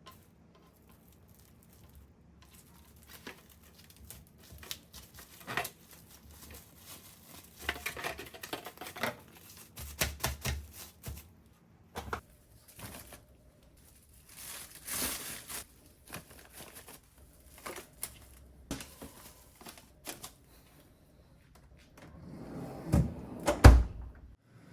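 Kitchen food-prep handling: scattered light taps, clicks and soft rustles of packaging and utensils while tofu skin is portioned. A louder cluster of knocks comes near the end.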